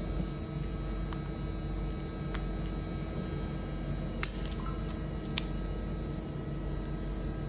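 Scissors snipping a parrot's wing feathers: a few short sharp snips, two close together about four seconds in, over a steady hum of the room.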